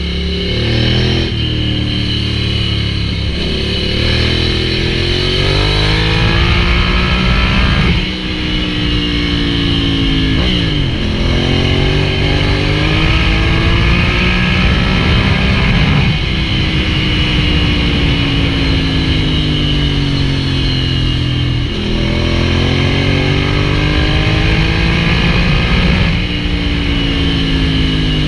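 Ducati Hypermotard 796's air-cooled L-twin running through an SC-Project full exhaust while being ridden. The engine revs up again and again with rising pitch, broken by gear changes, and in between the pitch falls as the rider eases off.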